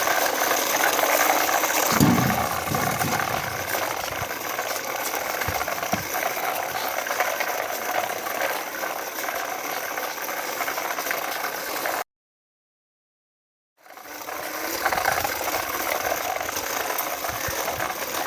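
Toy tractor's plastic gears and wheels rattling steadily as it runs. It cuts off abruptly about twelve seconds in and starts again a second and a half later.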